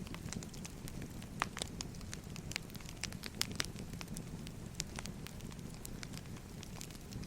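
Wood fire crackling: irregular sharp pops and snaps over a low, steady rush of burning.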